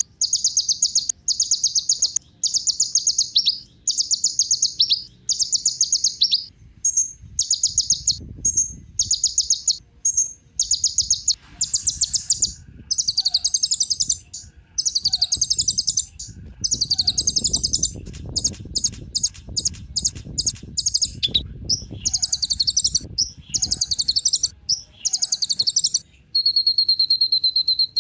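Kolibri ninja sunbird singing: fast, high, trilling phrases about a second long, repeated again and again with short gaps, the phrases turning higher and more scratchy about halfway through. A faint low rumble runs underneath in the middle.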